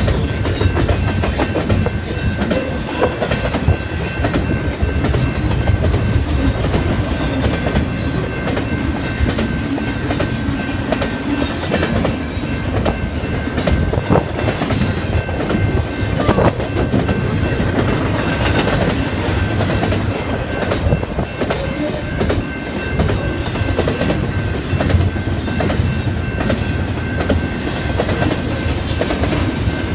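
Freight train cars rolling past at steady speed, the wheels clicking over the rail joints, with a faint steady high-pitched ring.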